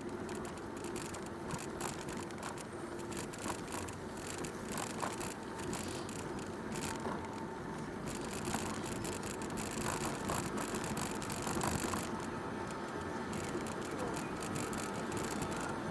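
Bicycle being ridden along a towpath: tyres rolling over the path with steady noise and the bike rattling with many small clicks over bumps.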